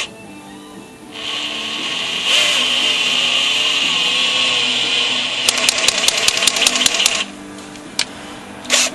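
Electric drill running steadily for about six seconds, driving a thread tap into a bolt hole in a VW 1600 engine case, with a quick run of sharp clicks near the end before it stops suddenly.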